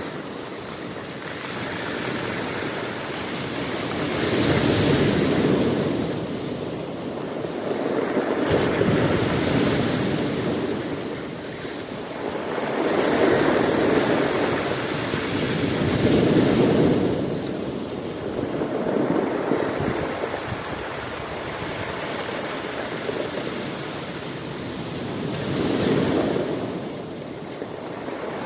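Sea surf: waves breaking and washing in, each surge swelling and fading over a couple of seconds, with a calmer stretch past the middle.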